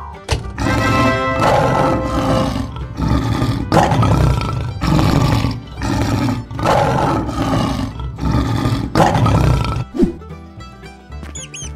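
Lion roar sound effect, repeated about seven times in a row, each roar about a second long, ending about ten seconds in, over light children's background music.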